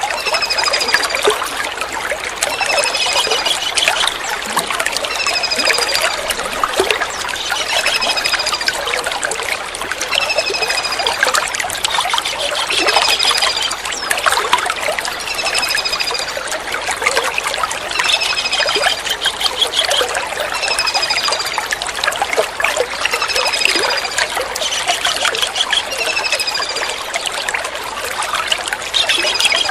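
Kingfisher calls: a short, high, falling call with a brief trill, repeated about every two and a half seconds over a steady trickle of running water.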